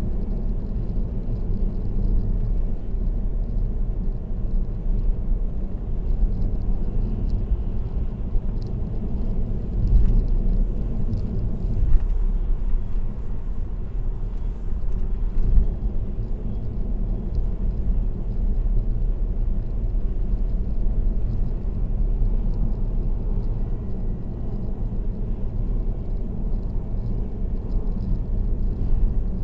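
Car driving at expressway speed: a steady low road and tyre rumble, with a few brief thumps about a third and halfway through.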